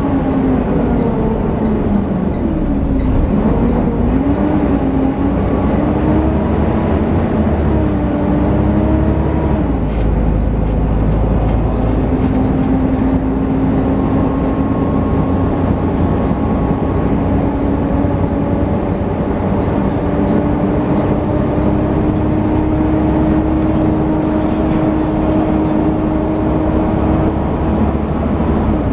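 Volvo B7TL double-decker bus under way, heard on board, with its characteristic 'hoovering' whine from the engine cooling fan. The whine wavers up and down for the first ten seconds, then holds steadier and slowly climbs. There is a single knock about ten seconds in, and a faint regular ticking about twice a second throughout.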